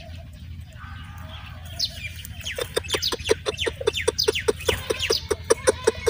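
A rapid run of short bird calls, about five a second, starting about two seconds in and growing louder.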